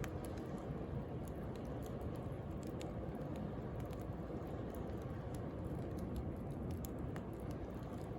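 Wood fire crackling with scattered small pops, over the steady low rush of sea waves.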